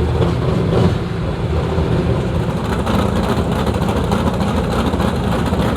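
Offshore racing powerboat engines running as a loud, steady, low rumble with a fast pulsing beat.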